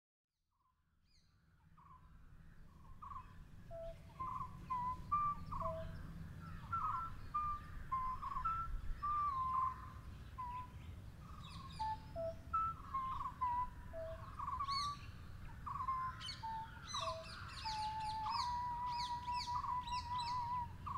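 Several birds singing and chirping, with short whistled notes and quick chirps, fading in over the first few seconds and growing busier near the end. A steady low rumble runs underneath.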